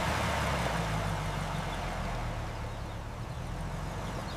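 Car engine idling steadily, a low hum under a soft hiss that fades a little toward the end.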